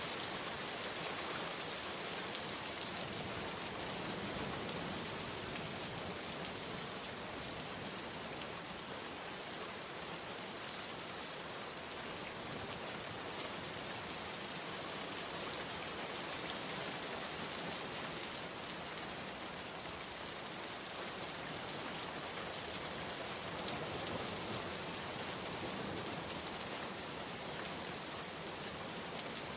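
Steady rain falling on a surface, a dense, even hiss of drops with no distinct single impacts.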